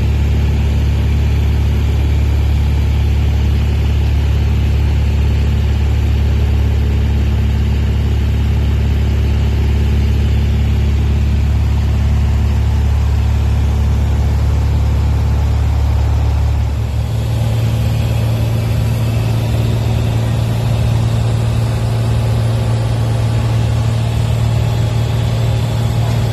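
Cessna 172's piston engine and propeller droning steadily, heard from inside the cabin. About two-thirds of the way through, the tone shifts to a higher pitch, as with a change in engine speed.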